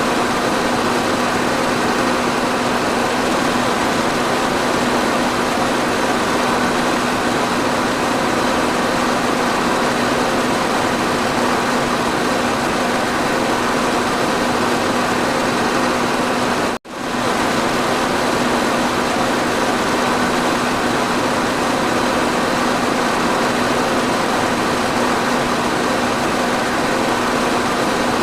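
Electric fan running steadily: an even rush of air with a steady low hum. It drops out for an instant about seventeen seconds in.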